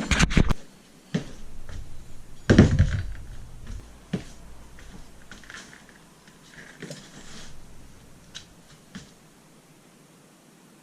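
A few sharp knocks at the start, then one heavy thump about two and a half seconds in, followed by scattered light clicks and rustling.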